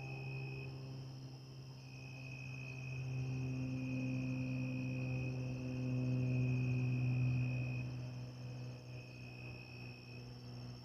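Insects trilling steadily in high tones, over a louder low humming drone that swells to a peak about two-thirds of the way through and then fades.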